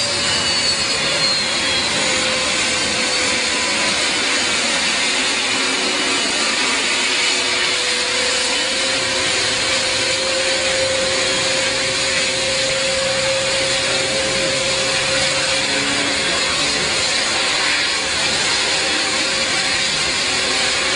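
Jet aircraft engines running steadily, a loud rushing noise with a high turbine whine that falls in pitch in the first couple of seconds and a steady lower hum.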